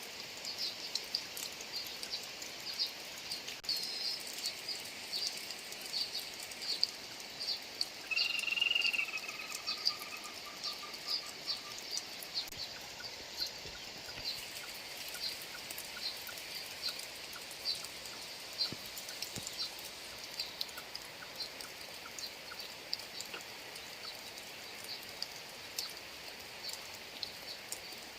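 Steady rain falling, with a string of short, high chirps a few times a second from small animals calling in the wet field. One longer, louder call comes about eight seconds in.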